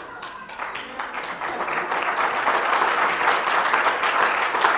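Congregation applauding, the clapping building up over the first couple of seconds and then holding steady.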